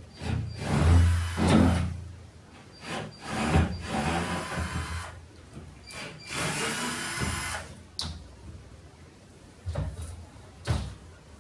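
Cordless drill-driver running in three short bursts, driving out screws from a shower panel. A sharp click and two knocks of loosened parts follow near the end.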